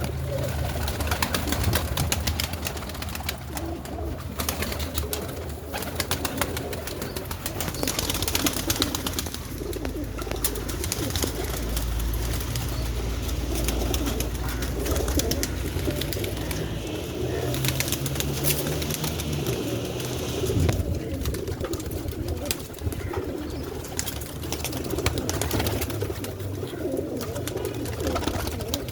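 Domestic pigeons cooing steadily, with many short clicks and rustles scattered through.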